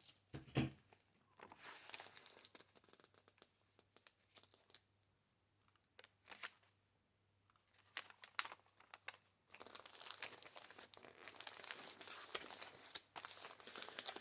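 Quiet paper rustling and crinkling as paper sheets and cutouts are handled, with scattered light taps, becoming a steadier rustle about two-thirds of the way in.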